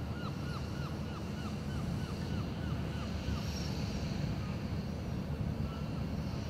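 A bird calling a quick series of short notes, about four a second, fading out about halfway, over a steady low outdoor rumble of wind.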